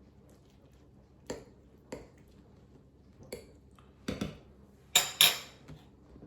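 Kitchen utensil knocking and clinking against a cooking pot, about six separate knocks, the loudest two close together near the end.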